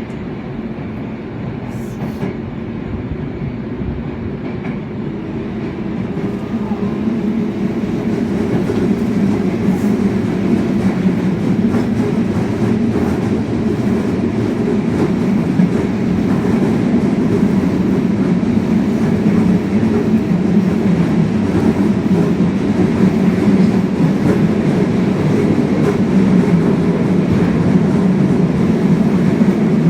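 Yokohama Municipal Subway Blue Line train running along the track with a steady rumble. It grows louder over the first ten seconds or so as the train gathers speed, then holds even.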